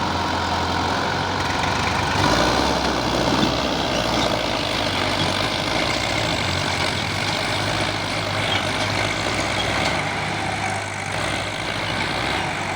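Tractor diesel engine running steadily with a deep hum, its note shifting about two seconds in.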